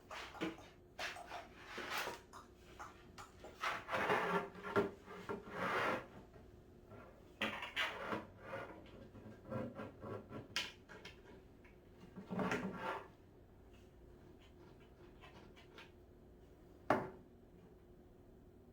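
Cat tower parts being handled and fitted together during assembly: irregular rubbing and scraping, then a single sharp knock near the end.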